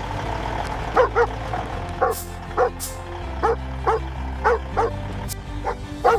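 A dog barking repeatedly: about ten short barks, often in quick pairs, over background music.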